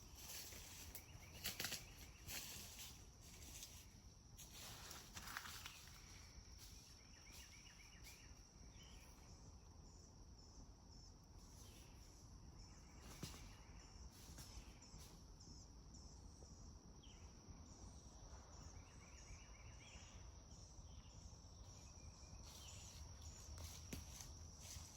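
Faint woodland ambience: a steady high-pitched insect drone over a low background hush, with a few soft clicks and rustles in the first several seconds and occasional small chirps later.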